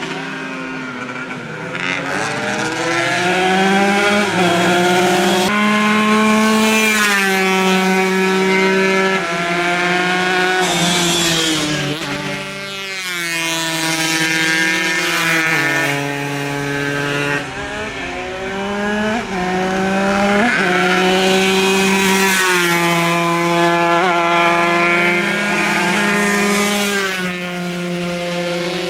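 Tuned 140 cc two-stroke road-racing motorcycles at full throttle, engine pitch climbing through each gear and dropping sharply at every upshift, with more than one bike often heard at once.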